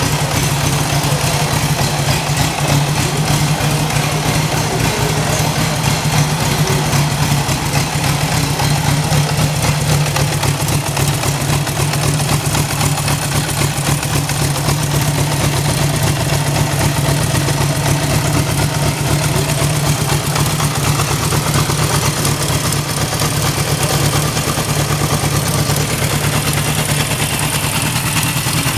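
1975 Honda CB750's air-cooled inline-four engine idling steadily.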